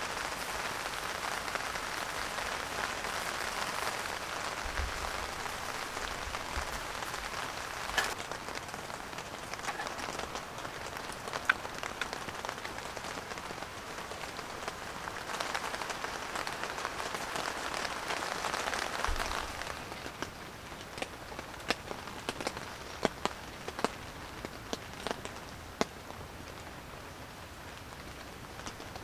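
Rain falling steadily; about twenty seconds in it eases and turns to scattered individual drips and taps.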